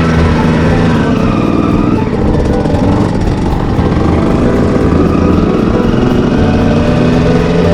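Two-stroke dirt bike engine running on the trail, its pitch rising and falling as the throttle is worked.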